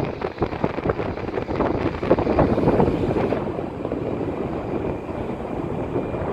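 Airbus A320 jet engines during landing: a loud, rough rush of noise, crackling for the first three seconds or so and then steadier.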